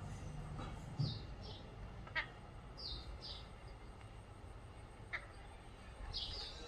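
Moustache parakeet giving soft, short high chirps, mostly in pairs, with a couple of sharp clicks between them.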